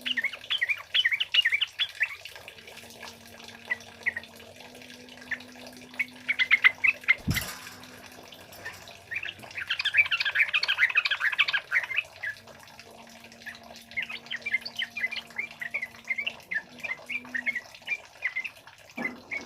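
Trucukan bulbul calling in repeated bouts of rapid, chattering notes, the loudest and densest bout near the middle. A single sharp knock comes about a third of the way in.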